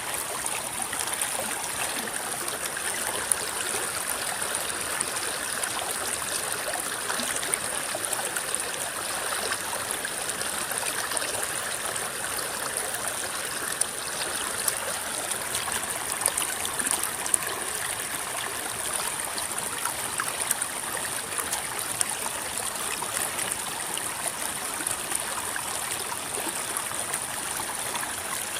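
River water rippling and babbling in a steady flow, full of small splashes, with a steady high hiss over it.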